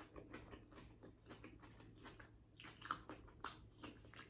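Faint close-up chewing and wet mouth sounds of someone eating, with a few sharper clicks about three seconds in.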